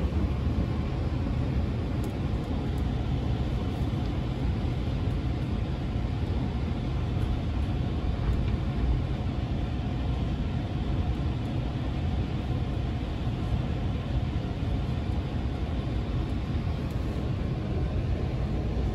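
Steady running noise of a local electric train heard from inside the passenger car: a low, even rumble of wheels on rail and the car body.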